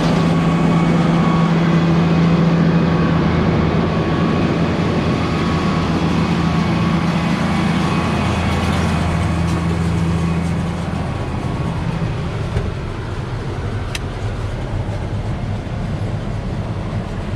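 2001 New Holland BB940 large square baler running off the tractor's PTO, a steady mechanical drone with a low hum that eases off about eleven seconds in, leaving a lower running sound, and one sharp click near the end. The pickup head is running louder than wanted and is due for adjustment to quieten it.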